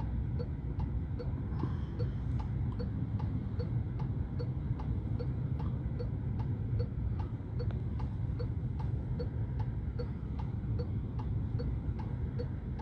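Car turn-signal indicator ticking evenly, about two and a half clicks a second, over the low rumble of the car on the road heard from inside the cabin.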